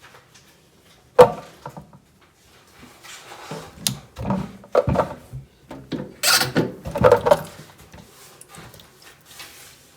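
Objects being handled and set down: one sharp knock about a second in, then a run of clattering knocks and rustling.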